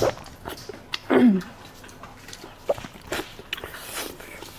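Close-miked eating mouth sounds: scattered smacks and clicks while chewing, with a brief falling vocal sound from the eater about a second in.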